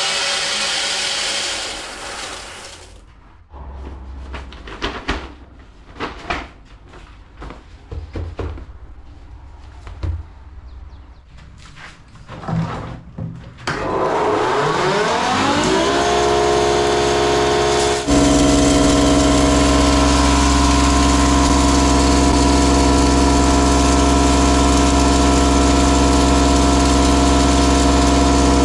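Some knocking and clattering, then an engine or motor starts up, its pitch rising for a couple of seconds before it settles into a steady run that gets louder about two-thirds of the way in.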